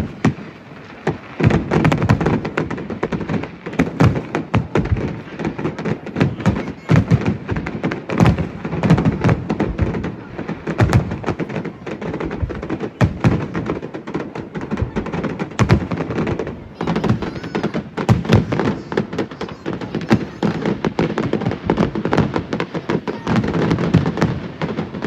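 Aerial fireworks bursting in rapid, unbroken succession: a dense run of booming thuds and sharp cracks, several a second, with no pause.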